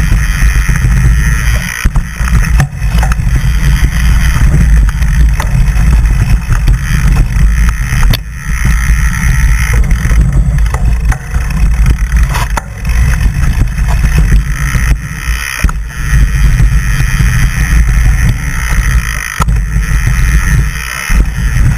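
Loud wind buffeting on the camera's microphone during a fast mountain-bike descent, with short knocks and rattles from the bike going over rough trail.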